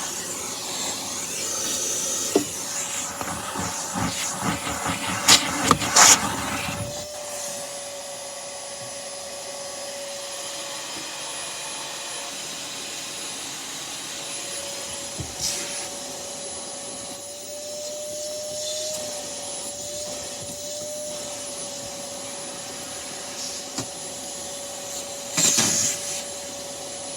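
Vacuum cleaner running. For the first several seconds there is rubbing and clunking with a few sharp knocks, then it settles into a steady motor hum with a constant tone and a faint high whine, broken by an occasional knock.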